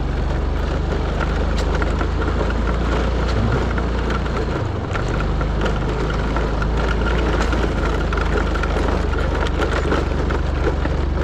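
A vehicle travelling over a rough dirt track: a steady low rumble with wind noise and small rattles and clicks, briefly easing about four and a half seconds in.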